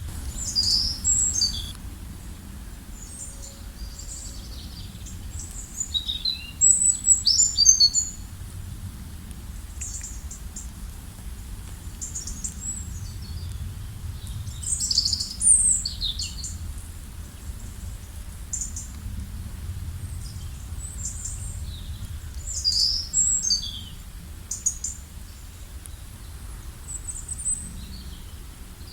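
Several birds chirping and trilling in short bursts, in clusters a few seconds apart, over a steady low rumble.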